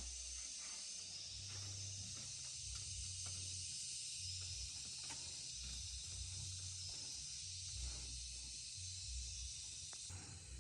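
Outdoor ambience: a steady high-pitched hiss with intermittent low rumbling and faint scattered knocks.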